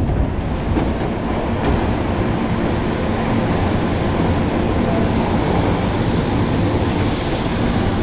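Electric commuter train running, heard from inside the car: a steady rumble and hum with a few faint wheel knocks on the rails.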